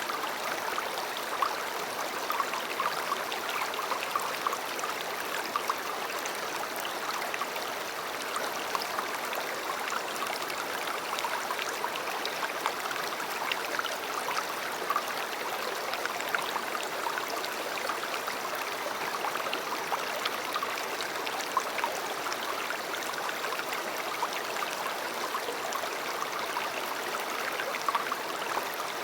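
River water flowing steadily over stones, a continuous rushing with small splashes and gurgles throughout.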